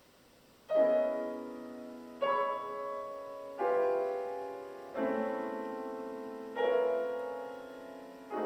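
Solo piano playing a slow chordal passage: after a brief hush, six full chords are struck about every second and a half, each left to ring and fade before the next.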